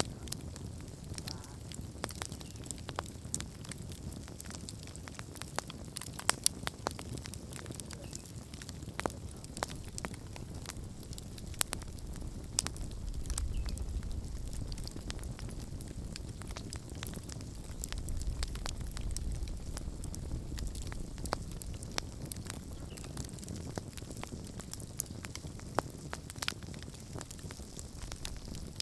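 Wood campfire burning, with frequent irregular crackles and pops over a low rumble that swells twice, briefly.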